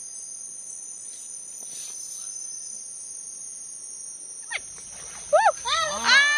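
Forest insects keep up a steady, high, shrill drone. About four and a half seconds in, a high-pitched voice breaks in with a few short rising-and-falling calls, then one long, loud held call.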